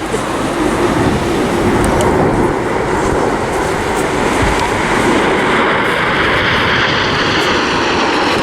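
Jet engines of Red Arrows BAE Hawk T1 trainers, Rolls-Royce Adour turbofans, making a steady rushing roar as the formation flies its display. The sound builds over the first second, then stays loud.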